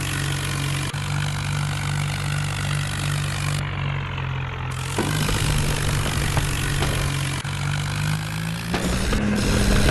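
Massey Ferguson 9500 tractor's diesel engine running steadily at idle, then its pitch rises briefly near the end as the throttle is opened.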